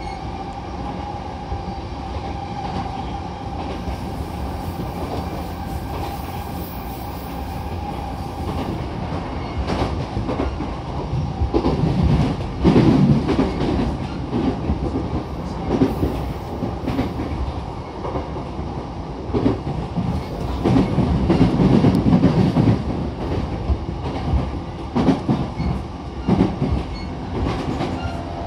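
E233-7000 series electric commuter train running at speed, heard inside the passenger car: a continuous rumble of wheels on rail, with a steady tone over the first several seconds, then rail-joint clicks and two louder, rougher stretches of clatter, one near the middle and one a few seconds later.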